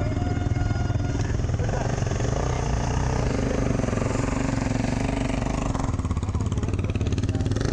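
Dirt bike engine running, louder through the middle as a bike rides through.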